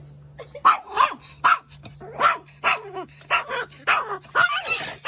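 A dog barking repeatedly, about a dozen short barks in quick succession starting just under a second in, over a steady low hum.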